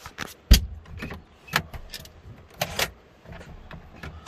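Irregular knocks and clatters inside a car, with one heavy thump about half a second in and a few lighter knocks after it.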